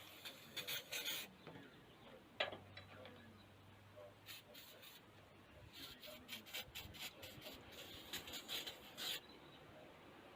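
Faint, intermittent rustling and scraping in short bursts, with one sharp click about two and a half seconds in.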